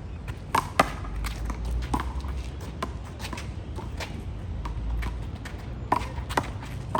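Handball rally: a small rubber handball slapped by hands, smacking the wall and bouncing on the court, sharp smacks at irregular intervals with two close together about half a second in. A steady low rumble runs underneath.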